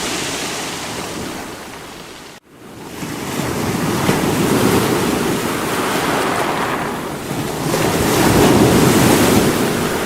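Sea waves breaking on rocks: a steady rush of surf that swells and ebbs, with one swell about four seconds in and a louder one near the end. The sound cuts out for an instant about two and a half seconds in, then builds back up.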